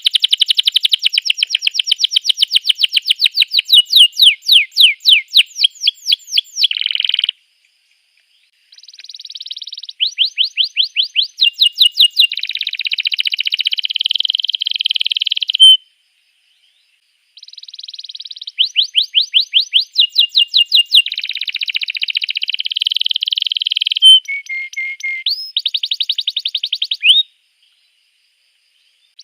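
Domestic canary singing: three long bouts of fast rolling trills and chirps, each broken off by a short silence of a second or two.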